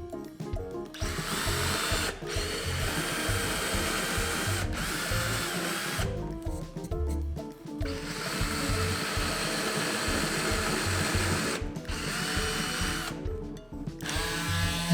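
Cordless drill driver (10.8 V) running in several bursts of a few seconds each, with short pauses between, over background music with a steady beat.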